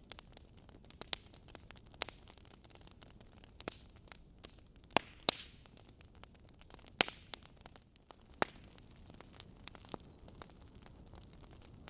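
Logs burning in a fireplace, crackling with irregular sharp pops over a low, steady hiss; a few louder pops come about five and seven seconds in.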